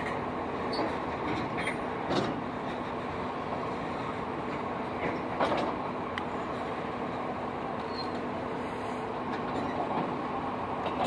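Freight train of tank cars rolling past: a steady rumble and rattle of steel wheels on rail, with a few sharp clanks and brief wheel squeals, the loudest clank about five seconds in.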